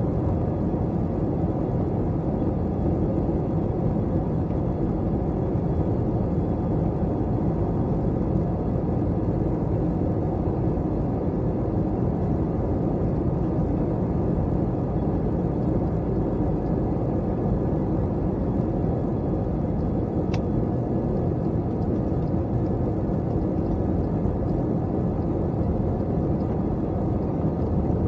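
Steady low rumble of an Airbus A321's engines and airflow heard inside the passenger cabin, even in level throughout.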